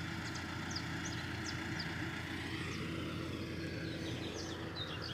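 A motor running with a steady low drone, while birds give short high chirps over it, several in a row near the start and again near the end.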